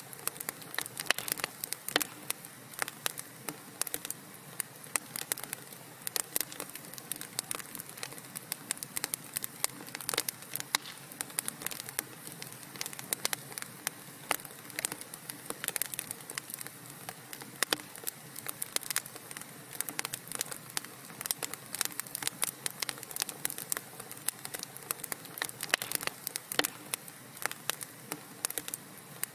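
Wood fire burning in a fireplace, crackling and popping irregularly and densely over a soft steady hiss.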